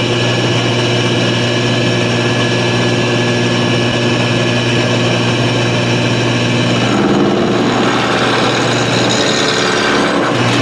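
Woodshop machinery, the wood lathe and its dust collection, running with a loud, steady hum. The tone of the hum changes about seven seconds in.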